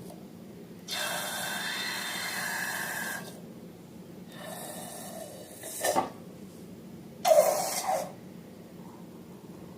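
Air hissing out of a balloon in three rushes: a long one of about two seconds, a shorter one ending in a sharp click, and a brief loudest one near the end.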